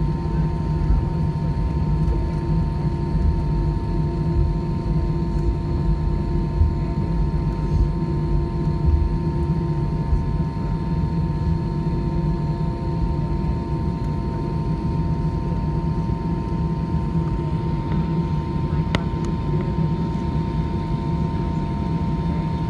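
Steady cabin noise of an Airbus A320 on the ground after landing: a continuous low rumble with a steady hum and a thin whine.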